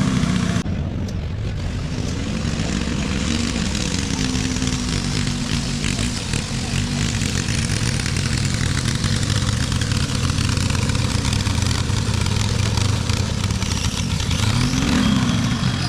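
Antique tractor engine running steadily, rising and then falling in engine speed near the end.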